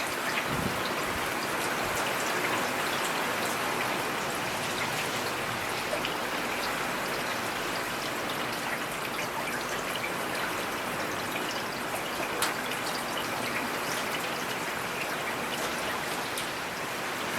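Steady rain falling in a forest, an even hiss with scattered individual drops striking close by.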